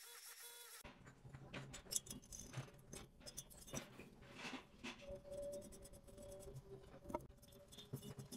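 Faint, irregular clicks, taps and scraping of small hard objects being handled, starting abruptly about a second in. A faint steady hum joins about halfway through.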